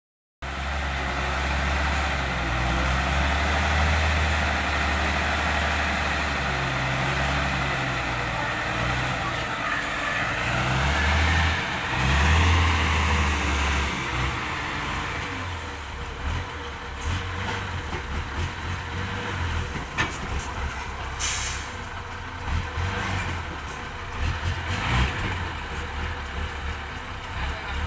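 Dump truck tipping its load: the truck's engine runs under a rough rushing noise through the first half, then settles quieter with scattered knocks and a brief hiss of air about two-thirds of the way through.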